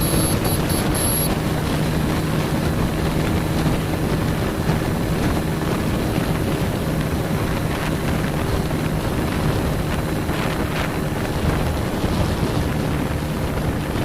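Motorcycle engine running steadily while riding, with heavy wind rush on the microphone. A short run of high-pitched beeps in the first second or so.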